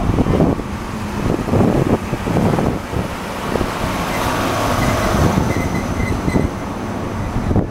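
Train of a DE10 diesel locomotive and 14-series sleeper coaches running past, its wheels knocking over rail joints again and again under a steady running noise.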